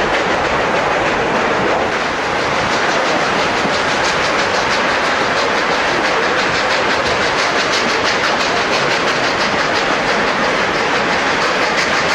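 Narrow-gauge train running along the track, a steady loud rumble and clatter of wheels on rails with a fast, even pulse through it.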